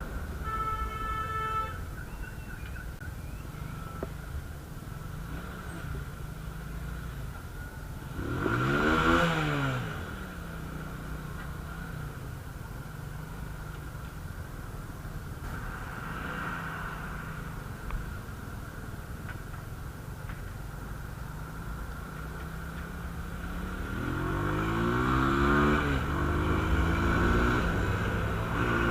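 Motorcycle riding in traffic: a steady engine drone, with one vehicle passing close about nine seconds in, its pitch rising then falling. Near the end the engine revs up several times in a row as it shifts up through the gears, getting louder. A short steady tone sounds about half a second in.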